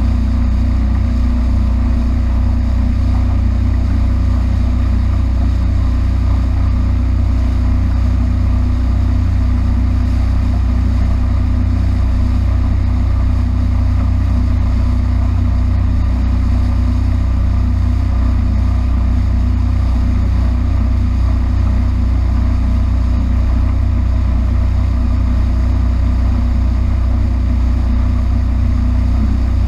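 Small powerboat's engine running steadily under way: a loud, even low drone that holds constant throughout.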